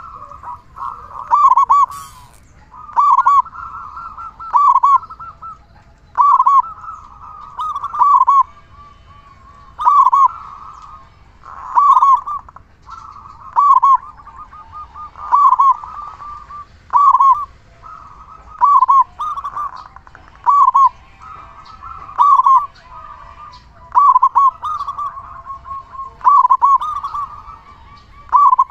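Zebra dove (perkutut) singing over and over: a loud, rolling coo phrase about every two seconds, with faint chirps of other small birds behind.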